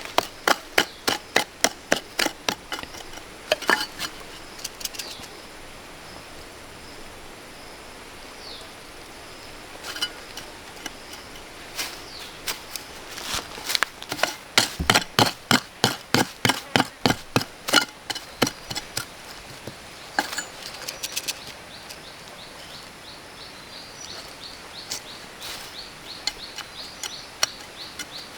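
Runs of sharp, evenly spaced knocks, about three to four a second, coming in several bursts of a few seconds each, with the longest burst in the middle. A faint high insect buzz fills the pauses later on.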